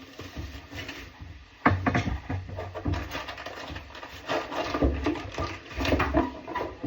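Irregular clicks, knocks and scrapes of hand tools and fittings being handled during a faucet installation.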